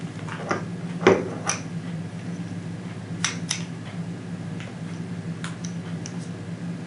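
Paper and packaging being handled: scattered light clicks and taps, the loudest about a second in, over a steady low hum.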